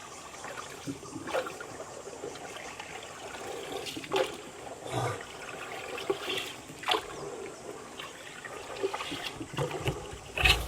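Water splashing and trickling against a small boat, with irregular splashes every second or two.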